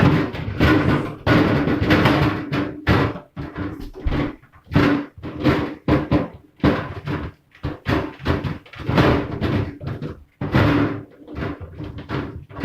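Hard plastic fridge parts knocking and clattering, repeated irregular bumps as a crisper drawer is fitted back into the fridge.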